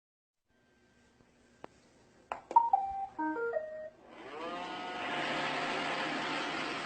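Two sharp clicks, then a quick run of short electronic beeps that jump between different pitches, followed by a steady noisy sound that begins with tones gliding upward.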